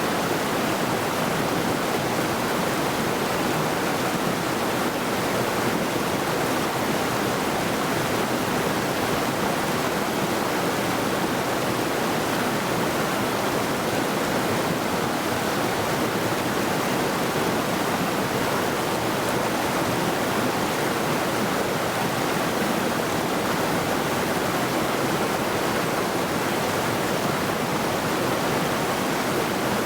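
Middle Saluda River rushing steadily over rocks: a constant, even wash of flowing water.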